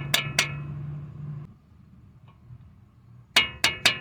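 Light metal-on-metal taps of a 14 mm socket on a long extension, driving a new axle seal evenly into the transmission: two taps at the start, a pause, then a quick run of taps about three a second near the end. A low steady hum stops about a second and a half in.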